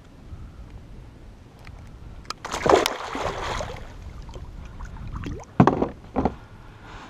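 A splash of water on a fishing kayak, then two sharp knocks about half a second apart.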